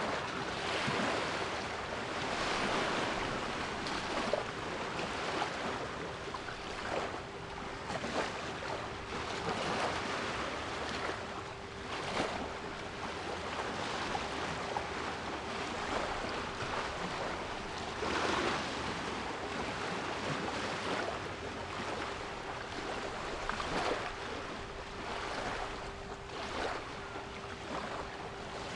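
Sea waves breaking and washing in, swelling and falling every second or two. A steady 396 Hz pure tone is held underneath them.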